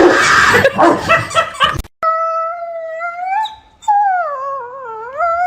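A loud, rough burst of noise cuts off suddenly, then a dog howls twice in long, wavering howls; the second dips in pitch and rises again.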